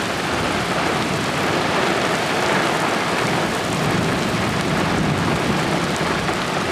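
Heavy rain pouring down in a severe thunderstorm, a steady, dense hiss.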